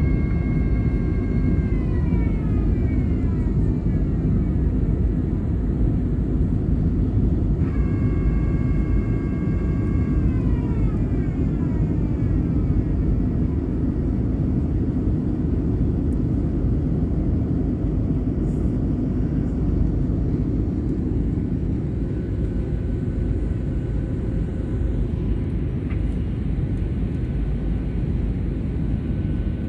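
Fixed-wing aircraft taking off: a loud, steady rumble of engine and air noise. A high whining tone twice holds steady and then slides down in pitch.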